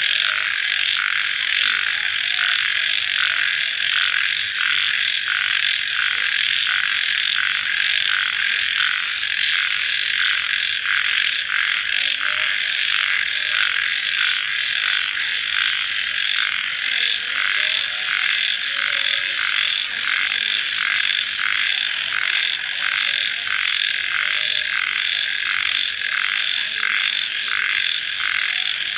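Dense night chorus of calling crickets after rain, a steady high trilling that pulses about twice a second.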